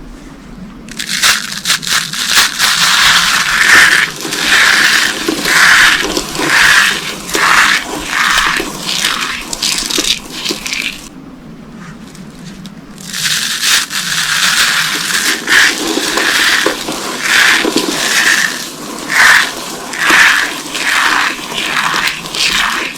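Dry soap boxes with corn starch being crushed by hand: crunching and crackling in repeated squeezes about once a second, with a pause of about two seconds near the middle.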